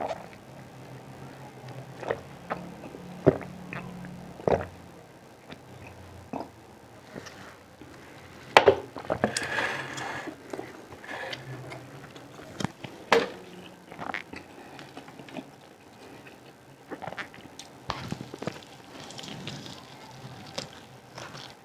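Close-miked eating sounds: chewing with irregular wet mouth clicks and smacks, a few louder ones, and a short noisy stretch about nine seconds in.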